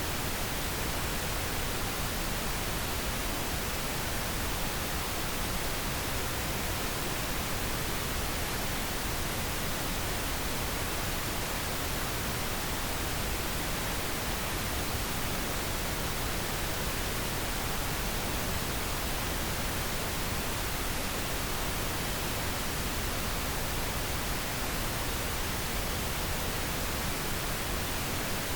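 Synthetic pink noise: a steady, even hiss spread across all pitches, never changing.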